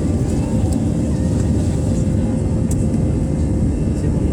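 Airbus A320 cabin noise after takeoff: a loud, steady low rumble of the jet engines and airflow, with a faint steady hum over it.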